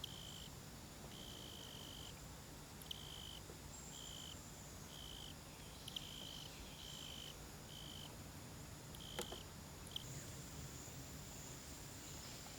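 Faint insect chorus: short trills at one steady high pitch repeating at uneven intervals, joined by a thin, steady, higher buzz about ten seconds in, with a few soft clicks.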